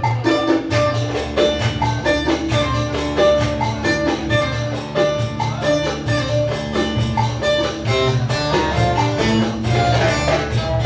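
Instrumental Ankara oyun havası, a Turkish folk dance tune: a melody over a fast, steady percussion beat.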